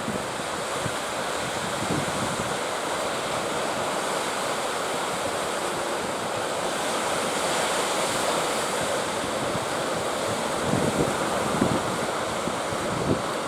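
Steady rush of sea surf and strong wind, with the wind buffeting the microphone.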